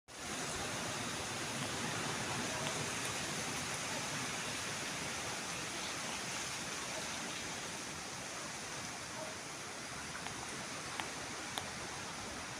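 Steady hissing rush of water spraying from a garden hose onto plants, with a few faint ticks near the end.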